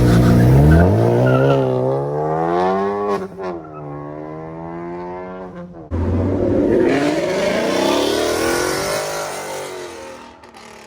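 Car engines revving at a car show. One engine idles, then revs up with a rising pitch, drops, and revs again. About six seconds in, a louder car accelerates past with a note that rises and then falls, fading near the end.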